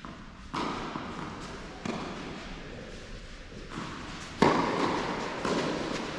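Tennis ball being struck and bouncing in a rally on an indoor court: a series of sharp hits roughly a second or more apart, the loudest a little past the middle, each echoing in the large hall.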